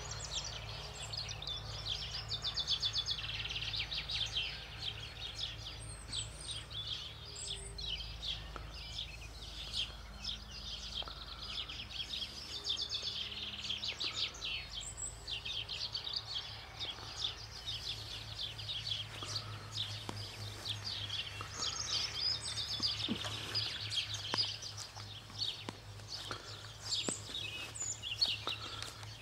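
Birds singing outdoors: a dense chorus of fast, repeated chirps and trills that goes on throughout, over a low steady hum.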